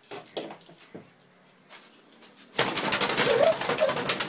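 A trapped bird beating its wings frantically against window glass. A few light taps come first, then a loud flurry of rapid wingbeats lasting about a second and a half.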